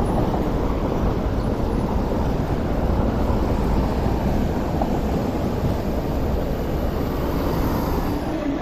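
MTR East Rail Line electric train running away along the tracks, blended with the steady rumble of road traffic, easing slightly as the train moves off.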